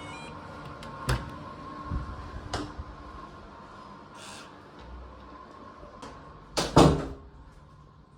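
A few sharp knocks and clunks, the loudest a double knock near the end, over a faint steady hum that fades out after it.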